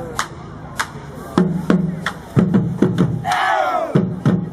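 Drum beats in an uneven rhythm, each stroke with a short low ring, and a burst of many voices shouting together about three seconds in.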